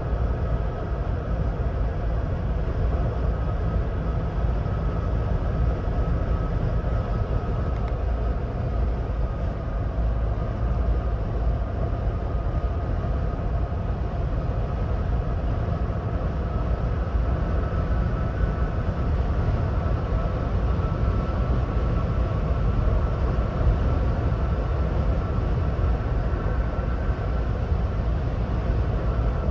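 Steady highway driving noise from a 2026 Ford Bronco Badlands: a constant low road and tyre rumble with a faint thin whine above it, a little stronger in the second half.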